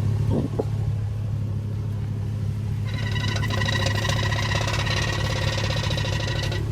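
Chevy Silverado pickup's engine running low and steady; about three seconds in, a high-pitched, rapidly pulsing squeal with several tones starts and keeps going. This is the noise the truck makes from its left rear when backing up.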